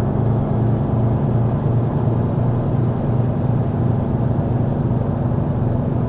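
Diesel engine of a heavy-haul semi tractor running steadily at a constant low pitch.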